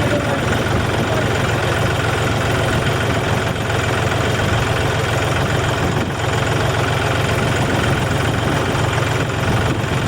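Tractor engine running steadily at close range, a loud, even low drone without changes in speed.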